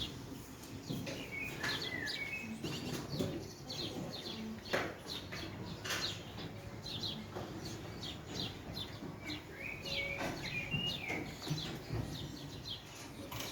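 Several small birds chirping: many short, quick chirps with a few brief whistled glides, over a steady low background noise.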